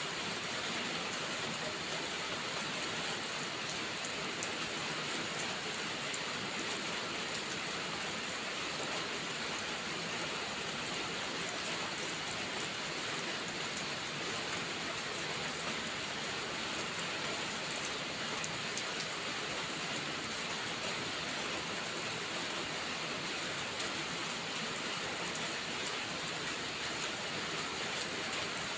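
Steady rain falling: an even hiss of many drops, unchanging in level, with faint scattered drop ticks.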